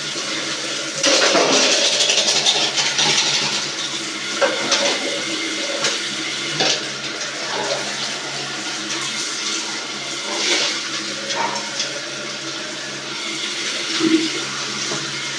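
Water running steadily, louder and splashier for a couple of seconds about a second in, with scattered short knocks.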